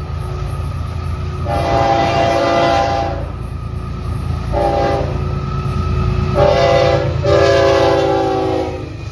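Freight train's diesel locomotive sounding its multi-note air horn four times, a long blast, two short ones, then a long one, over the steady low rumble of the engines and passing train.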